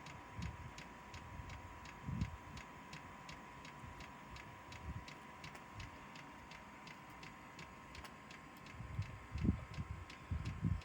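Chinese diesel air heater clicking steadily, about three ticks a second, while it warms up before ignition, with a steady high tone underneath. A few dull low knocks come near the end.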